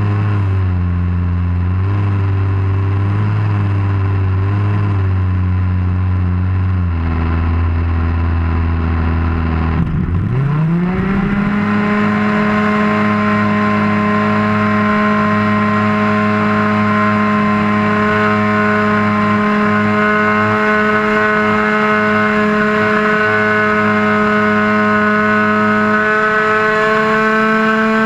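RC model airplane's engine and propeller, heard up close from the wing. It runs at low throttle with a slightly wavering pitch. About ten seconds in the throttle opens, and the pitch climbs quickly to a steady high-speed run that rises a little more near the end.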